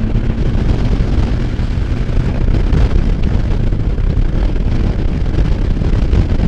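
Loud, steady wind rush and buffeting on a helmet microphone while riding a Can-Am Spyder F3 at road speed, sitting low and rumbling and drowning out the engine. Riding at speed in the wind has made this noise in the helmet quite a bit louder.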